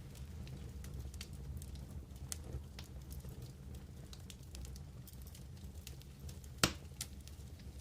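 Wood campfire crackling, with scattered small pops and one louder snap near the end, over a low steady rumble.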